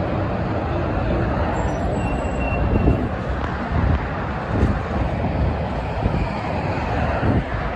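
Road traffic going by: a steady wash of tyre and engine noise, with a brief thin high tone about two seconds in.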